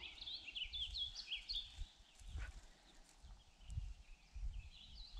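A songbird chirping in rapid series of short, high, slurred notes, in the first two seconds and again near the end, over a low, uneven rumble.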